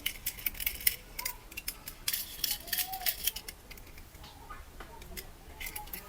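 Clusters of rapid clicking and crackling handling noise with short pauses between them, typical of plastic toys or packaging being handled.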